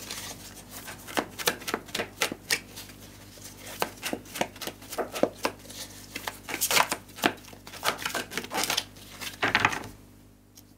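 A tarot deck being shuffled by hand: a steady run of quick card flicks and slaps. It stops about a second before the end, as a card is drawn and laid down on the wooden table.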